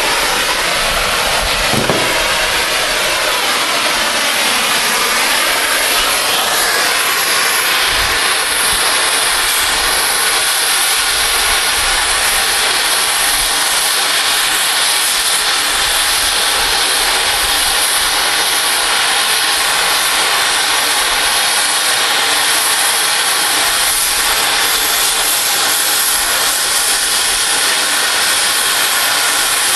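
Oxy-fuel cutting torch hissing steadily as it cuts through a steel railroad rail, with a couple of faint low thumps near the start.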